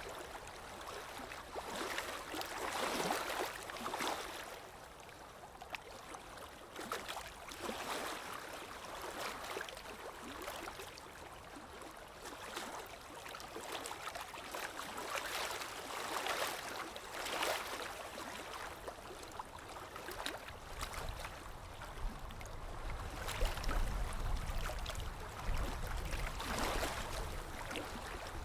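Running water ambience, swelling and easing every few seconds with fine dripping and splashing throughout. A low rumble joins in the last third.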